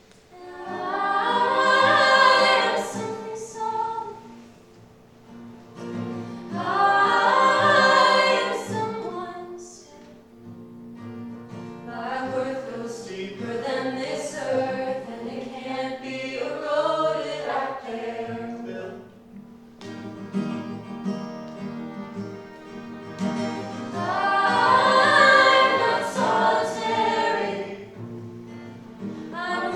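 Several voices singing together in harmony over steady held notes, in phrases that swell and fade every few seconds.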